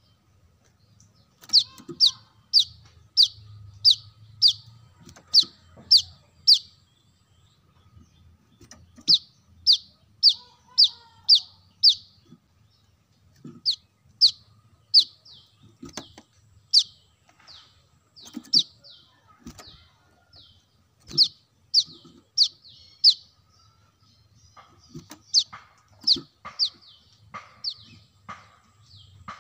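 Brown-throated sunbird (kolibri kelapa) calling: runs of sharp, high chips, each a quick downward sweep. The chips come about two a second in groups of several notes, with short pauses between the groups.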